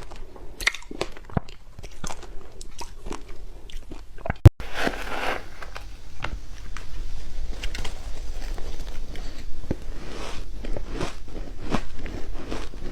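Teeth biting into and chewing hard matcha ice, a dense run of crunching and cracking, with one loud sharp snap about four and a half seconds in.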